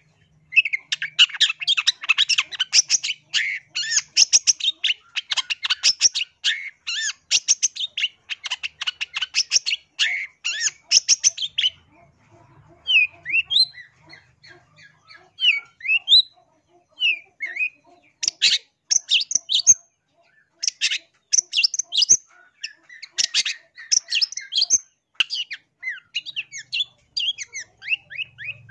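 Long-tailed shrike (cendet) singing: a fast run of short, chattering notes, easing off to a few scattered gliding notes near the middle, then picking up again in shorter bursts.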